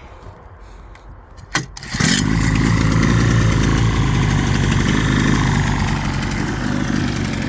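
1980s Mariner (Yamaha) 28 hp two-stroke twin-cylinder outboard starting up about two seconds in, just after a brief sputter, then running steadily. It is firing mainly on its bottom cylinder: the top cylinder has only intermittent spark, an ignition fault.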